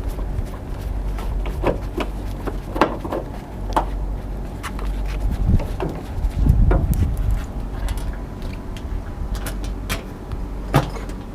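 Scattered clicks and knocks of an air-conditioner outdoor unit's sheet-metal casing being handled, over a steady low rumble.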